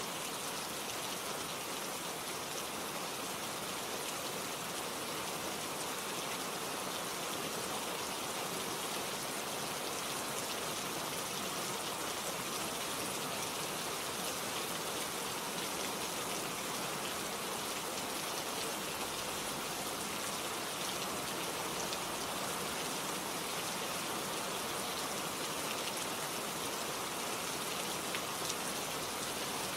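Steady rain falling, with a dense patter of drops striking leaves and other surfaces.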